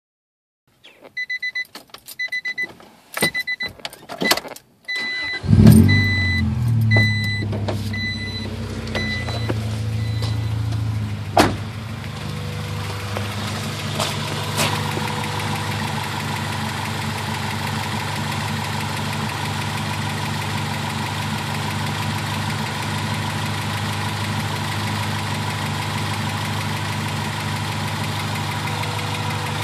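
A dashboard warning chime beeps repeatedly amid a few clicks. About five seconds in, an Acura Integra's B18B four-cylinder engine cranks and starts. It runs a fast idle that drops after a few more seconds, then settles into a steady idle.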